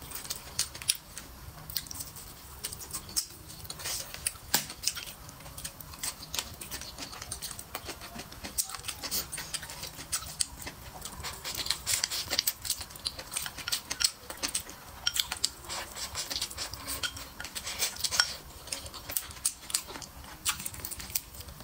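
Close-miked chewing and mouth smacking while eating braised duck, a dense run of irregular wet clicks and smacks throughout.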